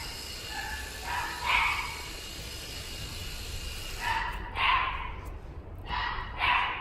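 American Shorthair kitten meowing repeatedly: about six short, slightly raspy calls, a few in the first half and a quicker cluster in the second half.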